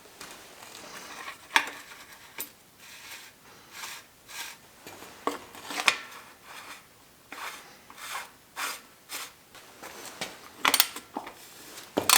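Light metallic clinks and scrapes of tools and small bicycle parts being handled, coming irregularly, with a louder cluster near the end.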